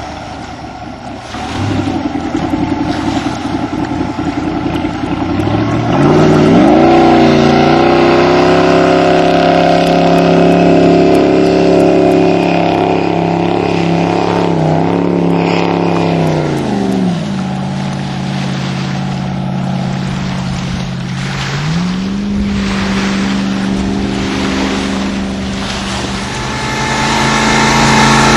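Supercharged 468 cubic-inch Chevy big-block V8 in a jet boat, running under power. The engine note climbs sharply about six seconds in and holds high revs. It drops back about seventeen seconds in, then climbs again to a steady, lower pace.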